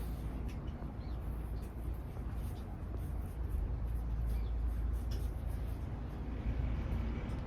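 Steady low outdoor rumble with faint, scattered high ticks and chirps over it.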